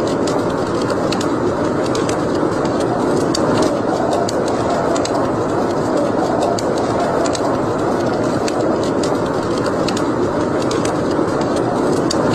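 Wood fire burning in a fireplace: a steady rushing noise of flames with frequent small, irregular crackles and pops of burning wood.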